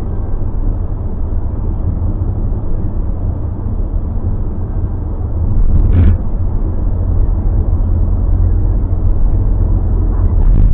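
Low, steady road and engine rumble inside a moving car's cabin, growing louder about halfway through, with one brief knock near the middle.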